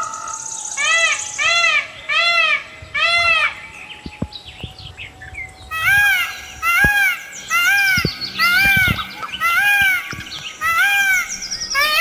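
A bird calls in runs of short rising-and-falling notes, about two a second, breaking off for about two seconds partway through. Fainter high chirps of smaller birds sound above it.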